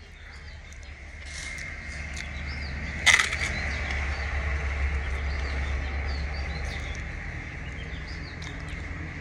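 Small birds chirping in the background over a steady low hum, with one sharp click about three seconds in.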